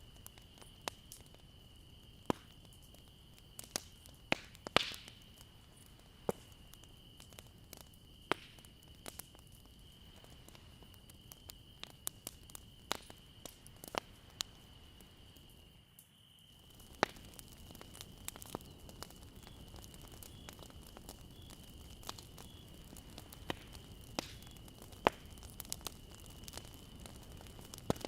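Campfire burning, with irregular sharp pops and snaps from the wood over a soft hiss and a faint steady high whine. The sound briefly drops out about halfway through.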